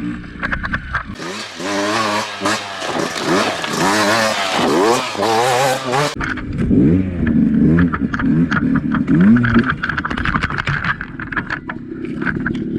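Two-stroke dirt bike engine revving up and down over and over as the throttle is worked on and off. From about one second in to about six seconds in, a harsher hiss rides over it and then cuts off abruptly.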